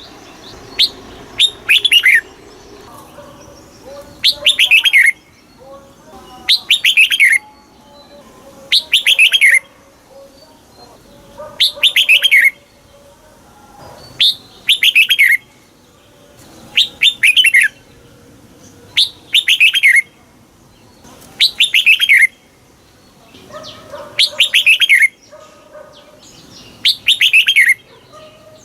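Red-whiskered bulbul singing: short, loud phrases of quick downward-sweeping whistled notes, repeated about every two seconds.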